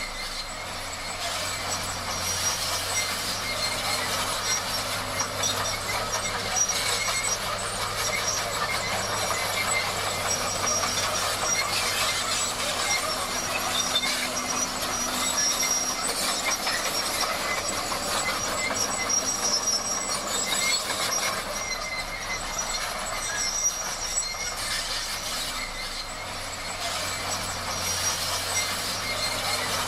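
Bulldozer at work: its diesel engine running with a steady low hum under a continuous grinding, squealing noise from the steel tracks.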